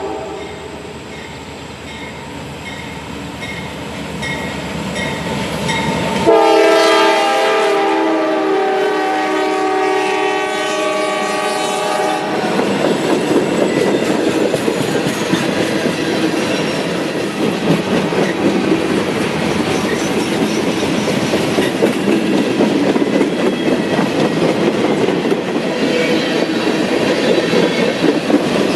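Train passing close by. A locomotive's chord horn, several notes at once, sounds a long blast for about six seconds, then the train rolls by with a steady rumble and wheels clicking over the rail joints.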